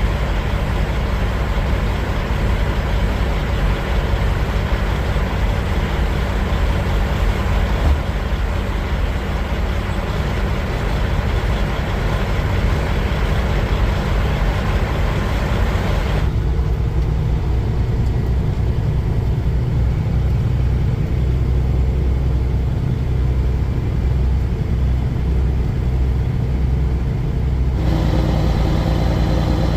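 Kenworth semi truck's diesel engine running steadily, a low hum under a layer of hiss. About halfway through the hiss drops away and leaves the engine hum plain, and the hiss returns near the end.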